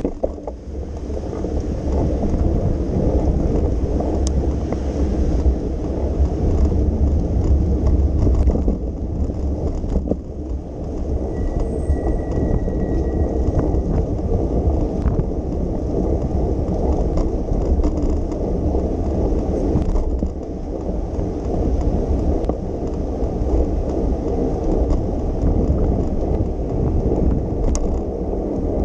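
Bicycle riding along city streets: steady rumble of the tyres and road with wind on the microphone, with a few faint clicks.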